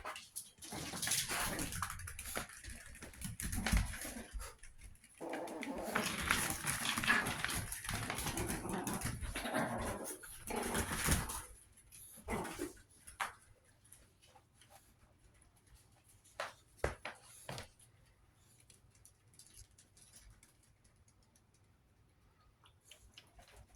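Chihuahua puppies making small whimpers and yips over a lot of scuffling, busiest for the first half, then only a few scattered taps and knocks.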